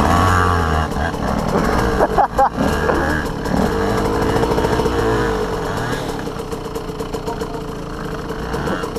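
Dirt bike engines being ridden up a steep trail, the pitch rising and falling with the throttle, with a few sharp knocks about two seconds in. From about halfway through the engines settle to a steadier, lower running.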